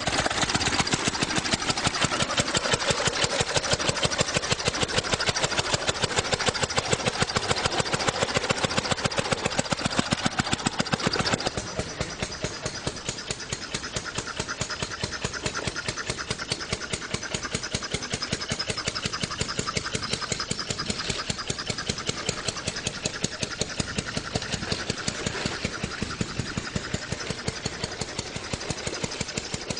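An engine running with an even, rapid pulsing beat; it drops in loudness about eleven seconds in and keeps running at the lower level.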